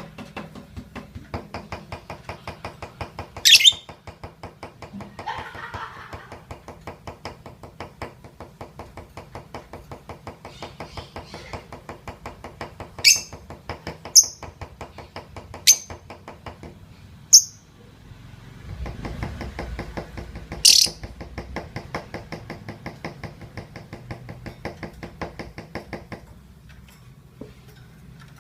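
Lovebird's ngekek: a long, rapid, rattling chatter held for many seconds, with a short break about two-thirds through, and several sharp, shrill squeaks standing out loudly above it.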